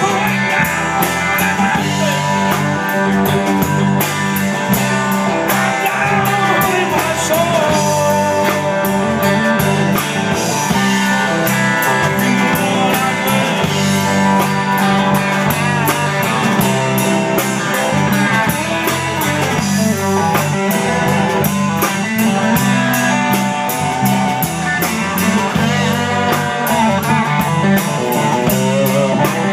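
A blues-rock band playing the song with guitar in the lead, over bass and a steady drum beat.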